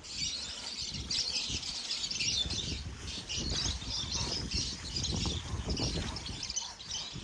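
Birds chirping continuously, with a low rumbling noise underneath.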